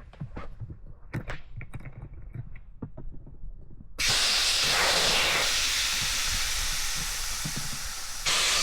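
A few light knocks and clicks, then a loud, steady hiss that starts suddenly about four seconds in and grows louder again near the end.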